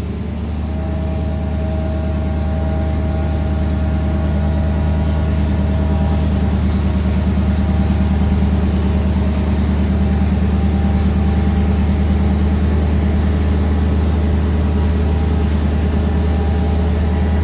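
A heavy vehicle engine running steadily, a deep drone that grows a little louder over the first few seconds and then holds.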